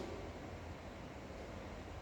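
Steady background hiss with a low hum underneath: the room and recording noise heard in a pause of the narration.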